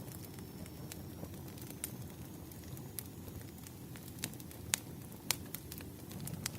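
Wood fire burning: a steady low rumble with scattered sharp crackles and pops, the loudest two a little over halfway through.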